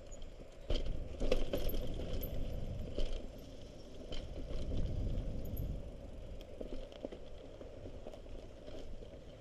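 Mountain bike rolling over rough trail ground, its chain and frame rattling with sharp clicks and clatter over a low rumble. The rattling is heaviest from about a second in to about six seconds, then eases off.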